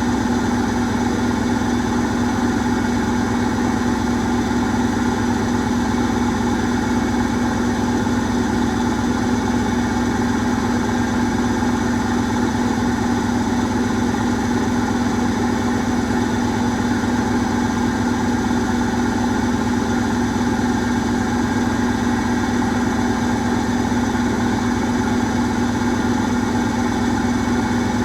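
Asko Quattro W6098X front-loading washing machine in its high-speed final spin, the drum turning at a steady speed with a constant hum.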